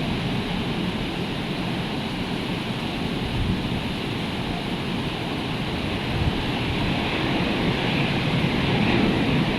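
Rough, hurricane-stirred sea surf breaking in a continuous roar that swells a little toward the end.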